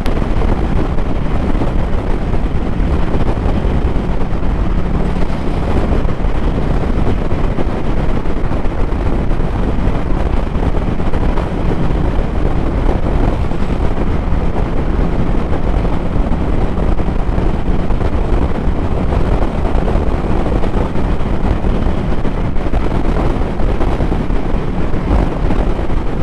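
Motorcycle riding at steady cruising speed: heavy wind noise buffeting the microphone over the engine's steady low running.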